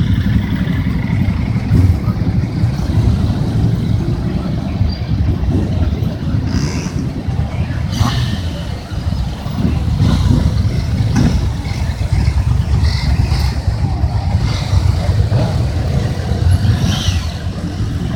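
Motorcycle engines running, with a steady low rumble.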